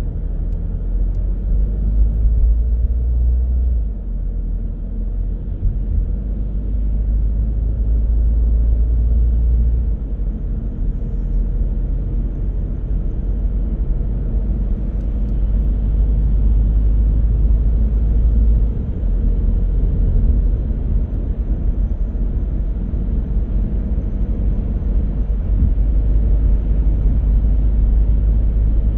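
Road noise of a moving car: a steady, deep rumble of tyres and driving, rising and falling a little in loudness.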